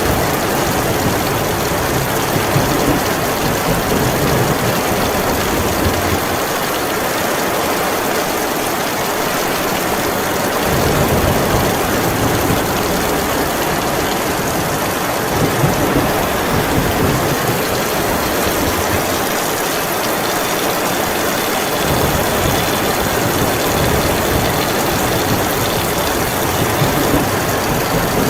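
Heavy rain falling in a steady hiss, with a low rumbling underneath that fades out and swells back several times.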